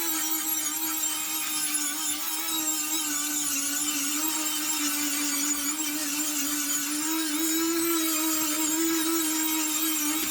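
Power tool spinning a carbide bit, grinding rust off an antique iron ice claw: a steady motor whine with a grinding hiss above it, the pitch rising a little near the end.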